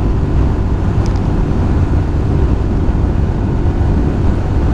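Motorcycle riding along with its engine running steadily, under a heavy, even wind rumble on the microphone.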